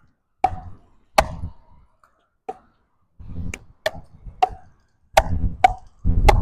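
Pickleball paddles striking the ball in a rally, about nine sharp pops at an uneven pace that come closer together in the second half. Low rumbles of wind buffeting the microphone come and go between the hits.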